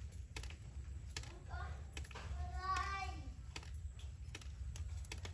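A high-pitched voice, like a child's, briefly about two and a half seconds in, among scattered light clicks over a steady low hum.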